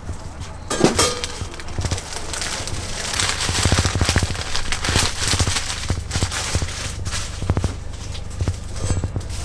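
Pizza being prepared in a food truck: a run of clicks, taps and knocks from utensils and hands at work, with a quick patter of taps near the end, over a steady low hum.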